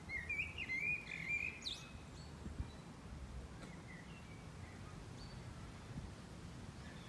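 Songbirds chirping: a burst of quick warbling chirps in the first two seconds, then scattered fainter chirps over a low steady background rumble.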